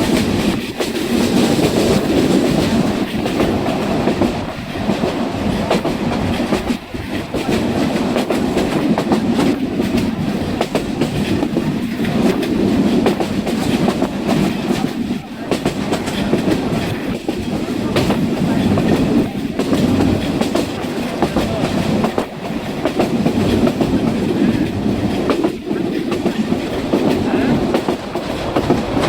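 A moving train heard on board: the steady, loud running noise of the carriage on the track, with irregular clicking and clatter of the wheels on the rails.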